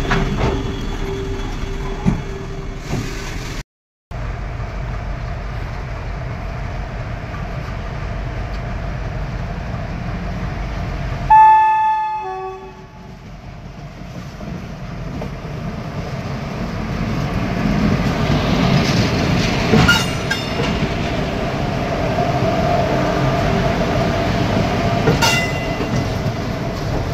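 Indian Railways electric locomotives running close by on the track: a steady low rumble of wheels on rails. About eleven seconds in a locomotive horn sounds a short blast, then the rumble builds again with a couple of sharp metallic clanks.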